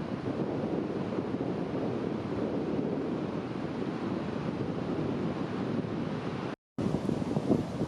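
Wind buffeting the microphone: a steady, low, fluttering rush. It drops out completely for a moment about six and a half seconds in, then comes back gustier.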